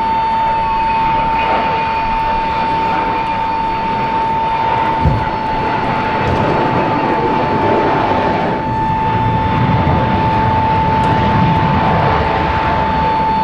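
Aircraft engine running with a steady high whine over a broad, continuous roar, with a brief low thump about five seconds in.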